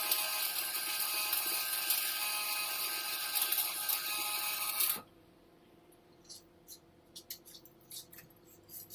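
Stick (shielded metal arc) welding arc crackling and hissing on carbon steel pipe, stopping abruptly about five seconds in as the arc is broken. Faint scattered ticks follow.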